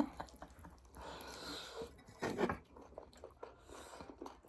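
Close chewing and biting of food during a meal: soft mouth noises and small clicks, with one louder short burst a little after two seconds in.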